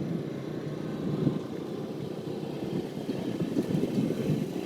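Vehicle engines running, a steady low hum.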